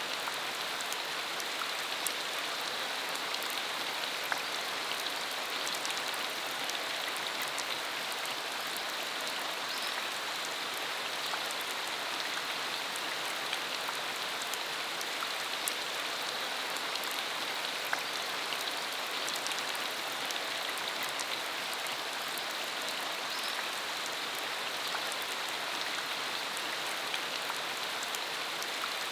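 Steady rain falling, a dense even hiss with many small scattered drop ticks, on a dirt country road.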